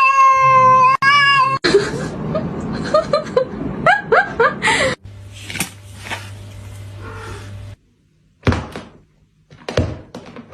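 A cat's long, drawn-out yowl that ends about a second and a half in, then a run of short rising calls. After that comes a low steady hum, and near the end a few separate knocks and thuds.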